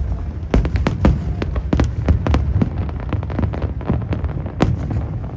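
Fireworks bursting in quick succession: a rapid series of sharp cracks and bangs, several a second, over a continuous low rumble of booms.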